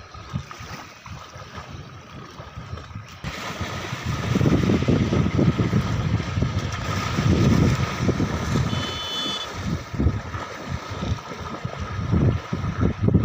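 Wind buffeting the microphone in irregular gusts, with a brief high chirp about nine seconds in.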